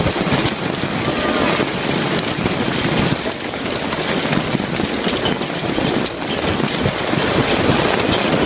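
Hail storm: hailstones and rain pelting down on surfaces in a dense, steady patter.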